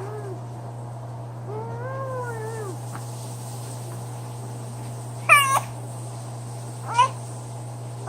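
A 22-week-old baby vocalising. A drawn-out coo rises and falls in pitch about two seconds in, then comes a loud, high, rising squeal around five seconds in and a shorter squeal near seven seconds.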